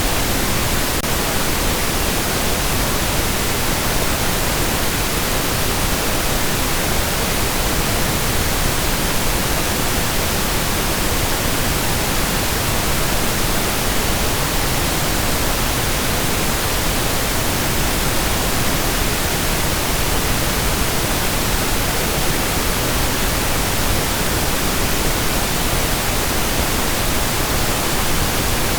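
Steady pink noise: an even, constant hiss spread across all pitches, unchanging throughout.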